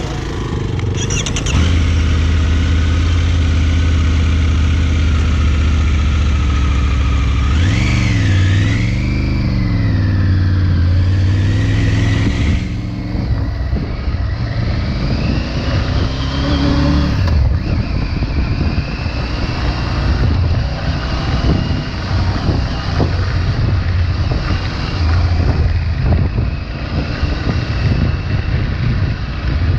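Triumph Tiger 900 Rally Pro's three-cylinder engine through its stock exhaust, riding off-road: a steady engine note, then revs rising and falling several times about a third of the way in, a longer rise that drops off just past halfway, and a rougher, uneven note after that.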